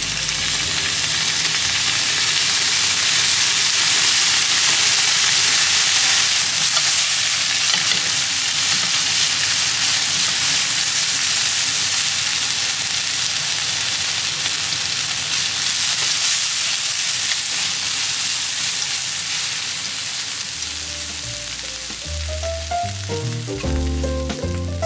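Food sizzling as it fries in a hot pan: a steady hiss, with background music coming in near the end.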